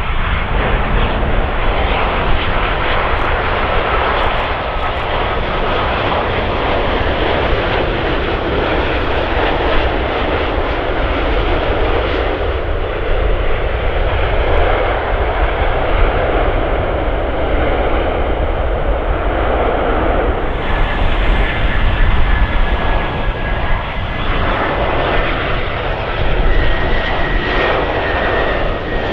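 Jet airliner's engines, a loud, steady rush of noise over a deep rumble, with a thin high whine coming in about two-thirds of the way through.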